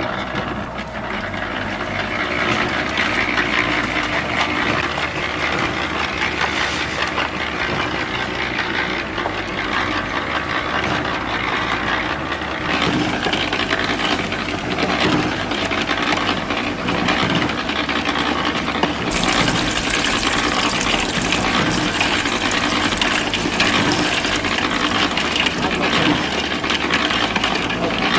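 Water pouring in a thin stream into the drum of a miniature model concrete mixer, growing brighter and fuller about two-thirds of the way in, over a steady background noise.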